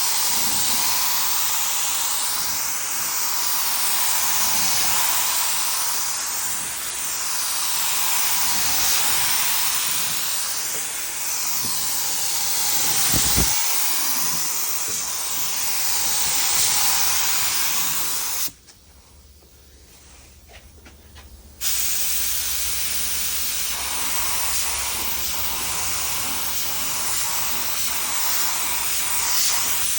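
Compressed-air spray gun hissing as it sprays clearcoat, the hiss swelling and fading about every four seconds with each pass. A brief low thump comes near the middle. The gun's trigger is released for about three seconds around two-thirds of the way through, then it sprays again.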